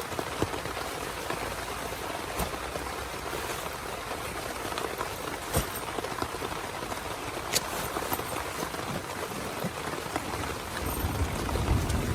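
Heavy rain falling steadily on a small tent, with scattered louder drops ticking on the fabric. Near the end a low rumble of thunder starts to build.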